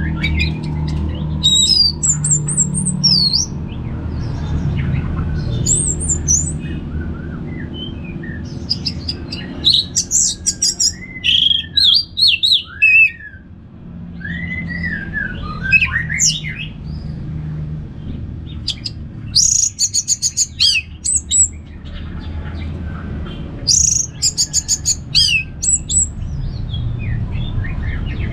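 Orange-headed thrush (anis merah) singing: varied high whistled phrases and rapid trills come in clusters with short pauses between them, over a steady low background rumble.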